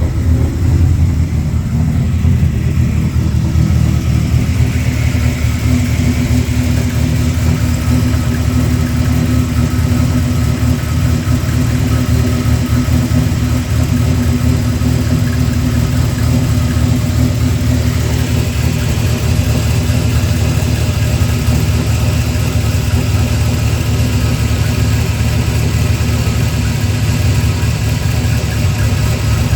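The Ram SRT-10's 8.3-litre Viper V10 idles steadily after a cold start. It runs evenly, firing on all cylinders, with a smooth valve train.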